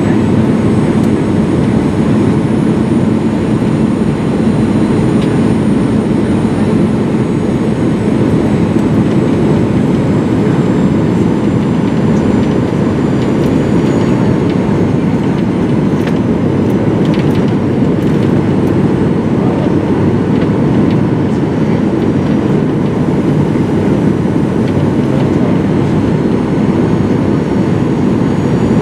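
Steady cabin roar inside a Boeing 737-900ER: engine and airflow noise, loud and unbroken, with a few faint clicks partway through.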